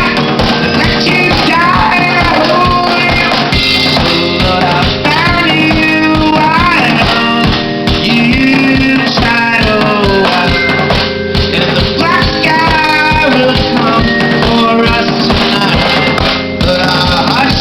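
Live indie rock band playing: a sung lead vocal over guitar and a driving drum kit with a steady beat.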